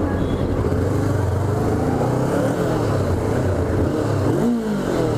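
Honda CBR500R parallel-twin engine pulling under way, its note dropping briefly a little after four seconds at a gear change and then rising again as it accelerates.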